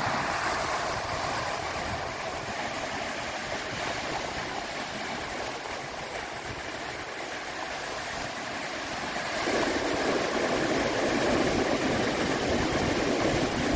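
Sea waves washing ashore with wind: a steady rushing that grows louder and fuller about nine and a half seconds in.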